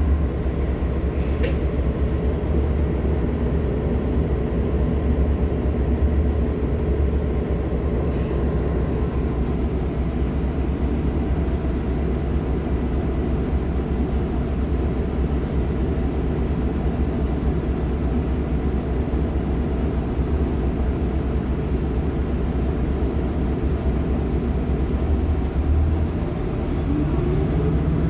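Nova LFSA hybrid articulated bus heard from inside while moving: a steady low drone from its Cummins ISL9 diesel and Allison hybrid drive, with a couple of brief rattles. Near the end a whine rises in pitch.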